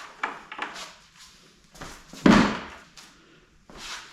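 A bucket of scrap steel pieces being handled and set on a scale: a few light knocks and scrapes, then one heavy thud a little over two seconds in, and a short scrape near the end.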